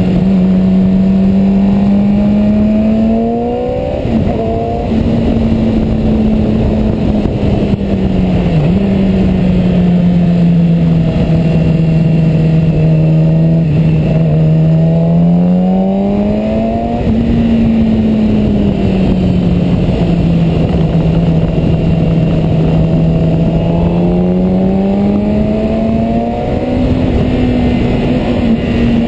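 Sport motorcycle engine running under way through bends, its note holding steady and then rising and falling several times as the throttle is opened and rolled off, with one sharp drop about nine seconds in. Wind rushes steadily underneath.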